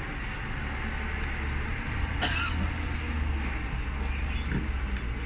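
Steady low rumble of vehicle engines, with a single short, sharp knock about two seconds in.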